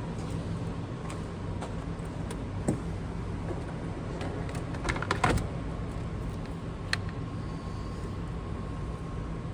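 Scattered clicks and knocks of battery hardware being handled in a car's engine bay, loudest as a short cluster about five seconds in, over a steady low hum.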